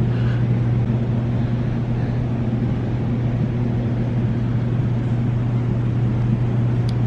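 A steady low mechanical hum, loud and unchanging throughout.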